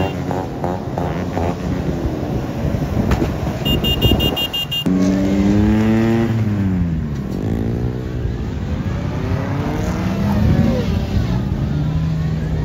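Car engines revving hard, the pitch swinging up and down as the cars spin donuts on loose dirt. A quick run of high beeps comes about four seconds in, and the sound changes abruptly just before five seconds.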